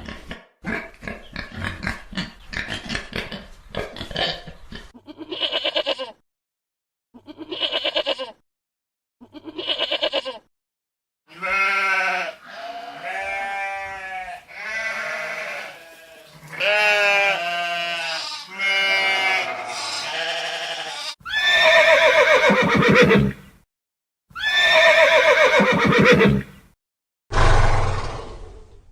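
A series of farm animal calls: rapid grunting pulses for the first few seconds, then a run of separate long, wavering calls with short gaps between them.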